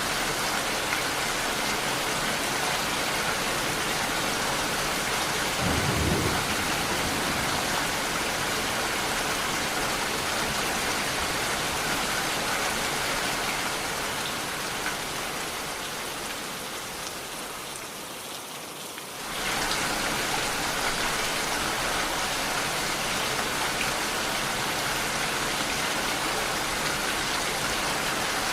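Steady rain falling, an even hiss of drops. There is one brief low thump about six seconds in. The rain fades down over a few seconds and then cuts back in abruptly at full level.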